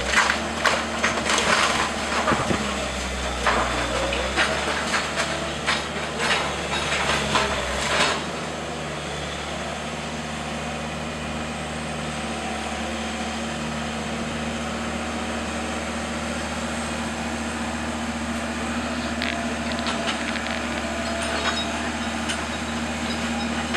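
Wooden house framing being crushed and splintered in demolition, with dense cracking and breaking for about the first eight seconds. After that a heavy machine's engine runs steadily, with a few faint crackles of debris near the end.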